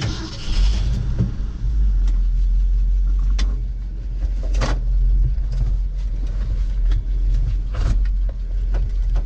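The 1974 Ford F-250's 360 FE V8 running with a steady low rumble, heard from inside the cab, with a few short clunks from the truck.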